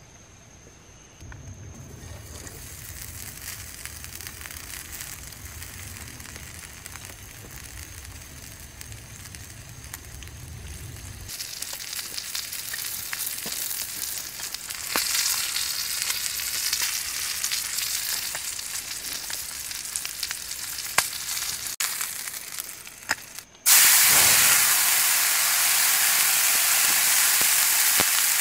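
Olive oil sizzling in a small frying pan on a wood-gas camp stove as food coated in hush puppy mix fries. The sizzle grows louder in steps and jumps suddenly much louder near the end.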